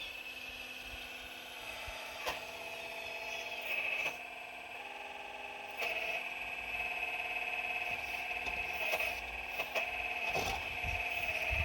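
4200XL excavator's motors whining, with a steady high whine and lower tones that start, change pitch and stop as the arm and bucket work. Several sharp knocks come from rocks being dug, with a cluster of them near the end.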